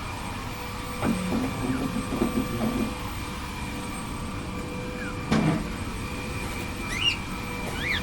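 Cockatiel giving two short rising chirps near the end. Earlier there are soft knocks and rustling, about a second in, around two seconds in and about five seconds in, over a faint steady hum.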